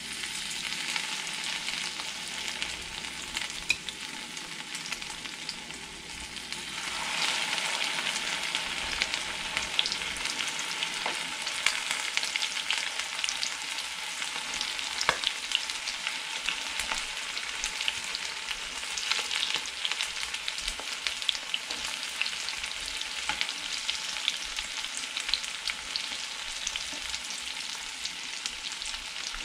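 Breaded ruffed grouse pieces shallow-frying in hot oil in a frying pan: a steady crackling sizzle with scattered small pops. It grows louder about seven seconds in.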